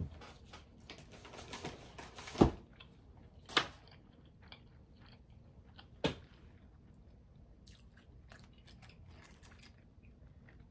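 A person chewing McDonald's chicken nuggets, with a few sharp clicks. The loudest click comes about two and a half seconds in.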